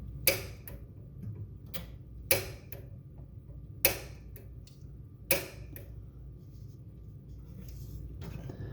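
Gas fireplace's red piezo igniter button pressed four times, each a sharp snap followed by a fainter click, sparking to light the pilot while the pilot button is held in.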